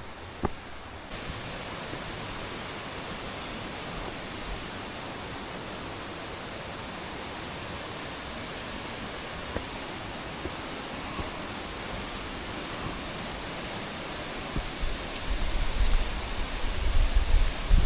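Steady rushing of falling or flowing water, stepping up slightly about a second in. From about fifteen seconds in, irregular low rumbling gusts come over it.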